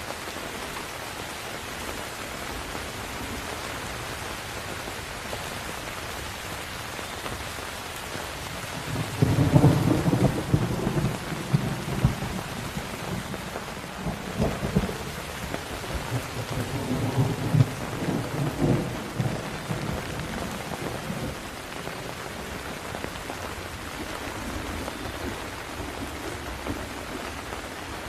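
Steady rain falling, with a long roll of thunder that starts about nine seconds in, rumbles in several swells and fades out a little after twenty seconds.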